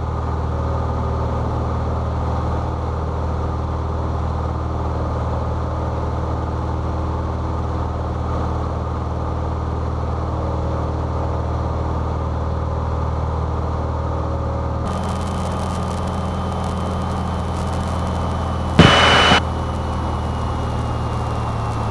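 Cessna 172's piston engine and propeller droning steadily in flight, heard in the cabin. About fifteen seconds in the engine note changes abruptly and a hiss rises above it, consistent with the power being pulled back for a simulated engine failure. A short loud burst of noise comes a few seconds later.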